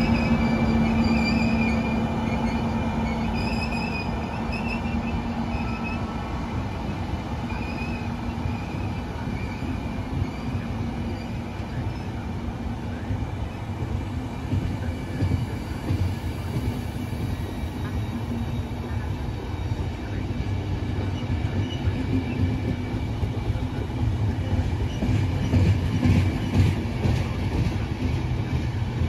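A train running through the station: a steady rumble of wheels on rails, with a thin high wheel squeal coming and going in the first half. Near the end comes a quick run of sharp clicks as the wheels cross rail joints.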